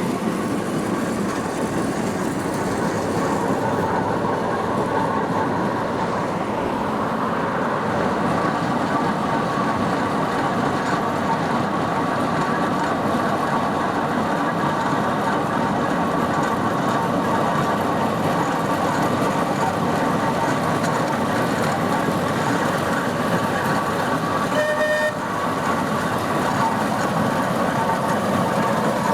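Steam traction engine travelling along the road, a steady mechanical running noise with a faint gear whine. About 25 seconds in there is one short toot of a whistle.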